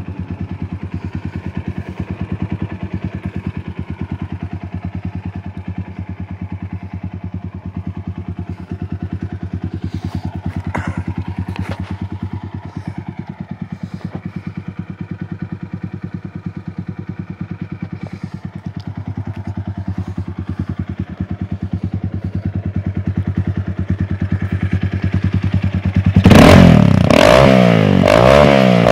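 Motorcycle engine running steadily at idle with an even, rapid exhaust pulse. Near the end it becomes much louder as the exhaust muffler is heard from close up.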